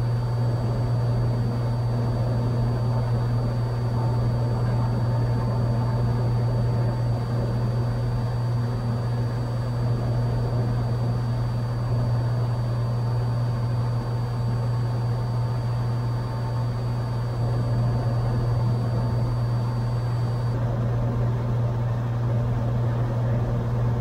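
Cessna 182's engine and propeller droning steadily in cruise flight: a constant low hum with no change in pitch.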